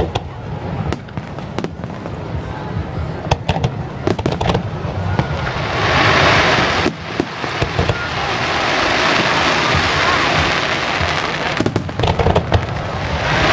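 Fireworks bursting: a series of sharp bangs, then from about six seconds in a louder, dense wash of noise with more bangs through it.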